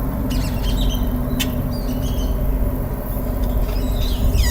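Birds calling in short high chirps and squawks, with a few quick falling notes near the end, which the recordist takes for distress and warning calls. A steady low rumble runs underneath.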